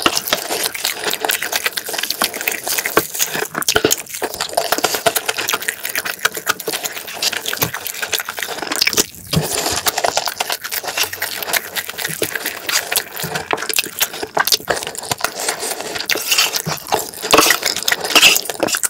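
Close-miked wet chewing and smacking of a mouthful of fried rice and spicy marinated crab, a steady stream of moist crackles and clicks. Near the end a wooden spoon scrapes through the sauce on the metal tray.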